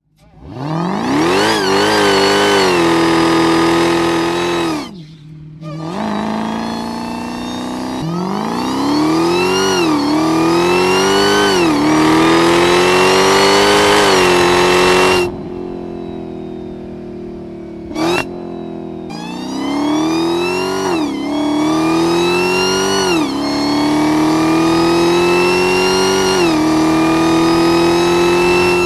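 Dodge Challenger Hellcat's supercharged V8 exhaust under hard acceleration. The pitch climbs in repeated pulls and drops sharply at each upshift. There is a short break about five seconds in, and a quieter lull in the middle with one quick blip of the throttle.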